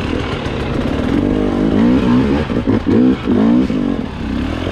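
Husqvarna TE 300 two-stroke enduro motorcycle engine being revved in short repeated bursts. Its pitch climbs and falls several times in quick succession in the second half.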